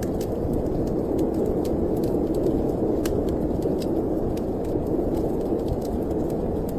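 Steady low wind of a snowstorm, with sparse sharp crackles of a wood fire scattered through it, one louder pop about three seconds in.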